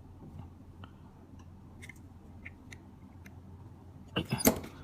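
Small metal clicks from a Zippo lighter being handled, faint at first, then a quick cluster of sharp metallic taps near the end.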